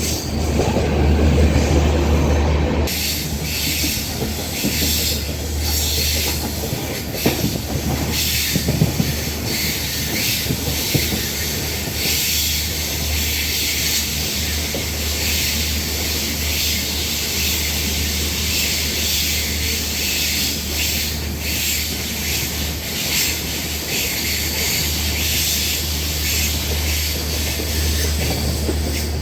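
Passenger train running steadily, heard from a carriage window: a low rumble of wheels on rails, with frequent clicks of wheels over rail joints. The sound changes tone about three seconds in.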